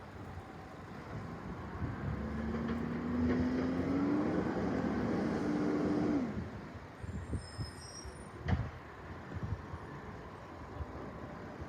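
Recycling garbage truck engine running, its pitch rising steadily for a few seconds and then dropping off. A single sharp knock follows a couple of seconds later.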